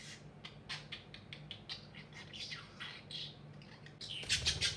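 Budgerigars chirping and warbling in short scattered calls, with a louder, harsh burst of rapid squawking near the end.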